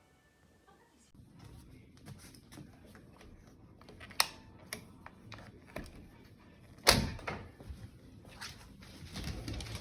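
Puppies moving about on a wooden bed and floor: scattered clicks, rustling and light knocks, with two sharp knocks about four and seven seconds in.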